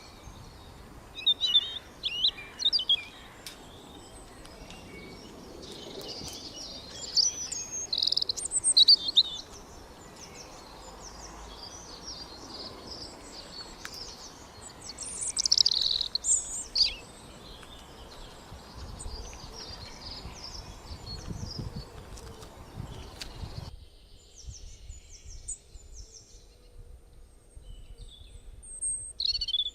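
Birds chirping and calling in high, quick clusters, loudest a few seconds in, around the middle and again a little past halfway, over a steady background hiss that cuts off suddenly about three-quarters of the way through, leaving faint rapid chirps.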